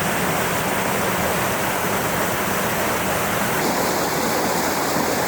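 Fast-flowing mountain stream rushing steadily, a continuous even wash of water noise.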